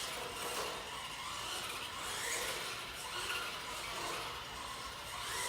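Small battery-electric 1/18-scale Axial RC trophy truck driving on the shop floor, its motor and gears whirring with small swells.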